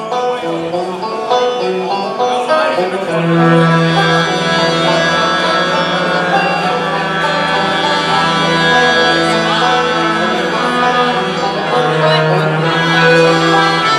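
Live bluegrass-style band music with banjo and other plucked strings; deeper held notes join about three seconds in.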